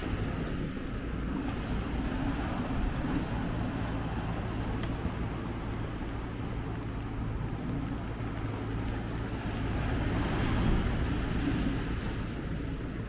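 Street traffic running steadily, with a vehicle passing closer and louder about ten seconds in.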